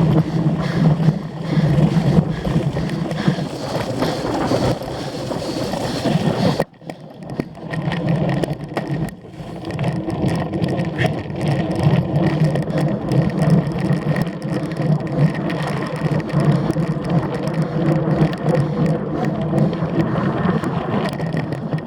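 A cyclocross bike being raced, heard on a camera carried along with it: a steady low rumble of wind and riding noise with many small rattles and knocks. The sound drops away suddenly about seven seconds in and builds back up within a couple of seconds.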